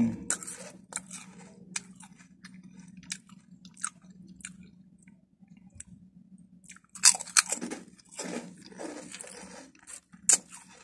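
Crisp crunching and chewing of a Patata potato snack close to the microphone: scattered crunches, a short pause past the middle, then a run of louder crunches about seven seconds in.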